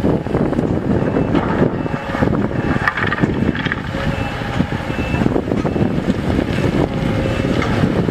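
Diesel engine of heavy equipment running steadily, a dense continuous rumble with faint whining tones above it.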